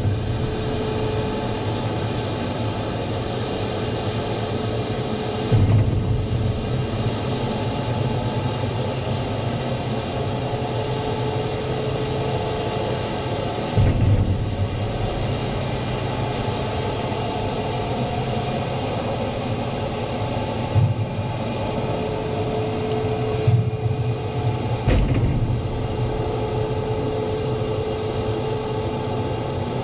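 Semi truck running down the road: a steady engine and road rumble, with a handful of short, louder thumps spread through it.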